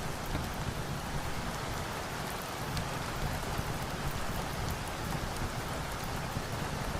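Steady rain falling, with a few light sharp ticks scattered through it.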